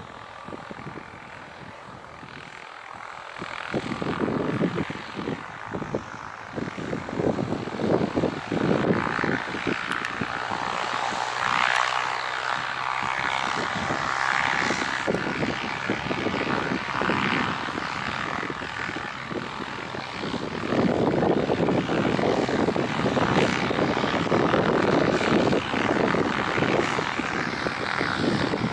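Jet airliner engines running on approach, getting louder in two steps, with gusty wind buffeting the microphone.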